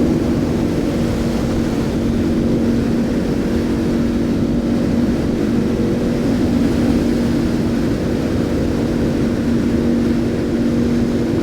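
Motorcycle cruising at steady speed: an even engine drone that holds one pitch, over wind and road rumble.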